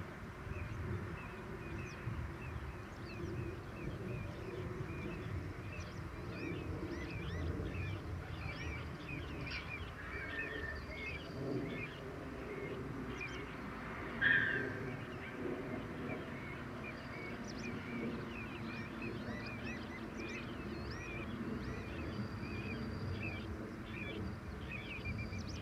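Many short, high bird calls chirping over one another without a break in a wetland, over a low rumble. A louder call stands out about fourteen seconds in.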